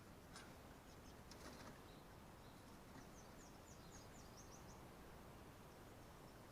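Near silence: faint background hiss with a few soft clicks and, a few seconds in, a quick run of faint high chirps.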